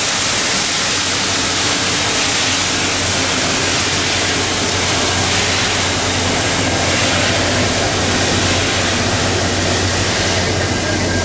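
Union Pacific Big Boy #4014 steam excursion train on the move, a loud steady rumble and roar with a low hum and no pauses.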